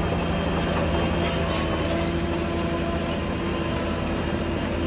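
Diesel engine of heavy earthmoving equipment running steadily at an even, unchanging level.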